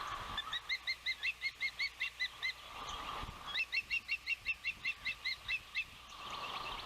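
Osprey calling: two runs of rapid, upslurred whistled chirps, about five or six a second. The second run starts about three and a half seconds in.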